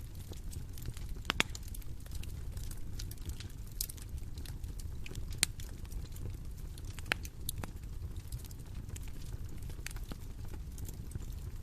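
Bonfire crackling: irregular sharp pops and snaps over a steady low rumble of the burning fire, with louder pops about a second and a half in, near the middle and about seven seconds in.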